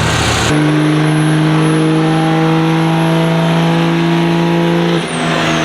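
A truck making a loud, steady, unchanging drone that starts abruptly about half a second in and cuts off suddenly about five seconds in. A faint high whine falls away after it.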